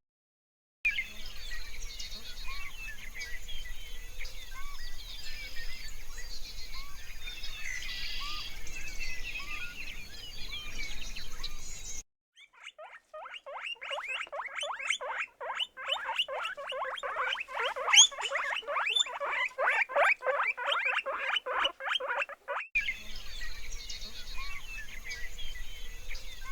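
Background bird chirping, cut to about ten seconds of an animal's rapid, continuous run of short squeaky calls, then back to the bird chirping near the end.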